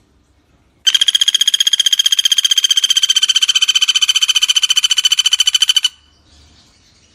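Common flameback woodpecker (pelatuk bawang) giving one long, fast rattling trill of about five seconds, roughly a dozen even notes a second, starting about a second in.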